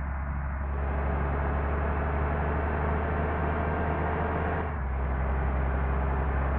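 Large diesel engine running steadily, a deep low drone with a hum, its tone shifting slightly about a second in and again near the end.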